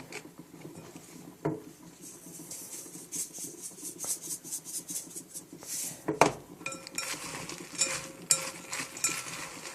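A utensil clicking and clinking against a ceramic bowl and rustling through buttered puffed corn cereal, with one sharp knock about six seconds in followed by a run of ringing clinks.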